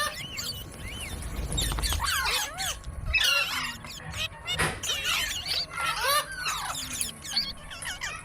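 A parrot squawking and chirping in a run of short, squeaky calls that bend up and down in pitch. A low rumble sits under the calls from about one to three seconds in.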